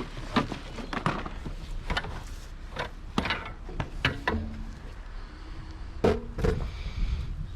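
Discarded household junk being rummaged through by hand: a run of irregular knocks and clunks as objects are picked up and moved, with a short ringing tone twice, about four and six seconds in.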